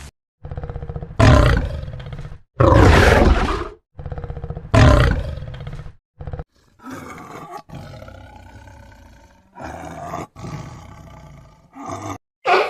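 Tiger roaring: three loud roars in the first five seconds, then quieter, lower growling, with abrupt silent breaks between the calls.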